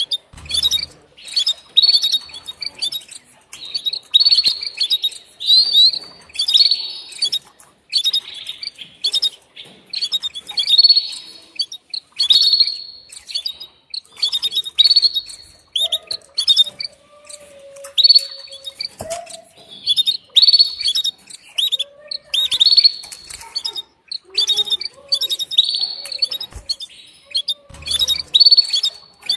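Female canary giving its mating call to the male: short bursts of high, quick chirps repeated about once a second.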